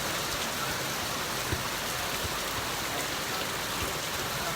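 Heavy rain falling steadily, an even hiss with a few scattered louder drops knocking.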